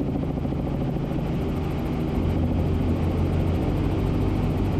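Helicopter in flight: the steady low drone of its rotor and engine, heard from inside the cabin.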